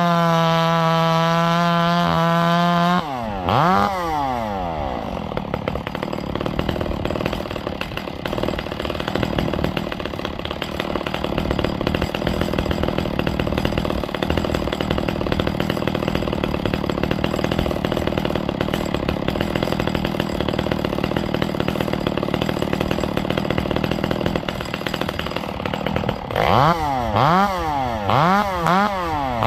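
Ported Echo CS-670 two-stroke chainsaw. It runs flat out with a steady high note for about three seconds, then drops into a long stretch of rough, noisy running under load as the chain cuts wood. Near the end it is blipped up and down in quick revs.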